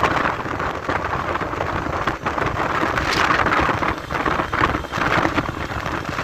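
Steady rushing wind noise over the microphone of a moving motorcycle, with the motorcycle's engine running underneath.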